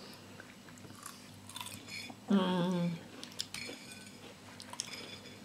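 Quiet chewing of fried banana fritters, with a short hummed voice sound about two seconds in and a few light clicks of a fork on a plate.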